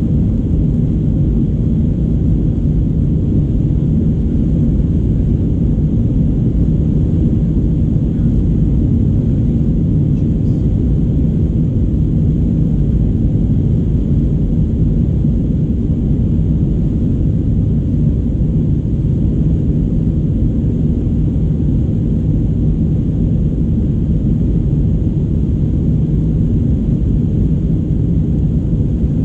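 Steady cabin rumble of an Airbus A319-114 in flight, from its CFM56 jet engines and the airflow over the fuselage, heard from a passenger seat.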